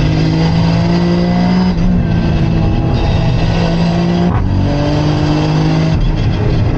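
Toyota GR Yaris's turbocharged three-cylinder engine running under load, heard from inside the cabin over road noise. A little past halfway the engine note breaks off briefly for a gear change, then picks up again at a new pitch.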